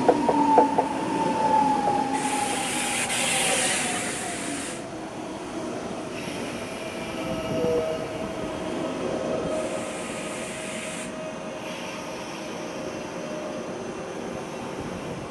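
ICE high-speed train braking to a stop at a platform: a whine falls steadily in pitch as it slows. A few sharp wheel clacks come at the start, and two bursts of hiss, about two seconds in and about ten seconds in.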